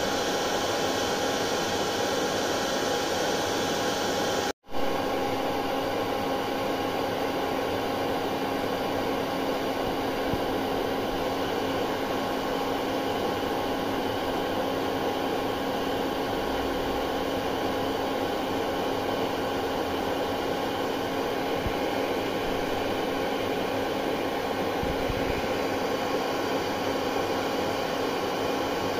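Hair dryer running steadily: an even rush of blown air with a constant motor hum. A split-second gap about four and a half seconds in, after which it carries on unchanged.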